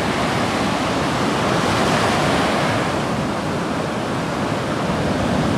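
Ocean surf washing steadily onto the beach, a continuous rush that swells a little about two seconds in.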